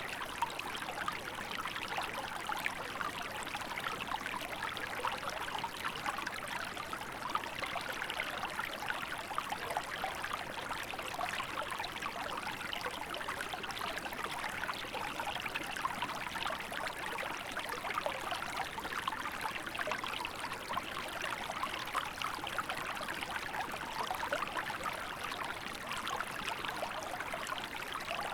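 Small river flowing steadily in winter, a continuous wash of water with dense small splashes and trickles.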